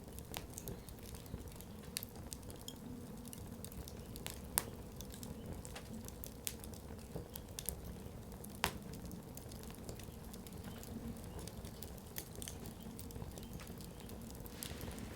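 Campfire of firewood burning, with irregular sharp crackles and snaps over a low steady rumble of flame; two louder pops stand out, about four and a half and eight and a half seconds in.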